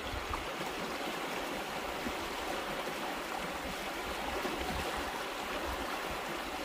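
Floodwater rushing steadily, a continuous noise of fast-flowing water.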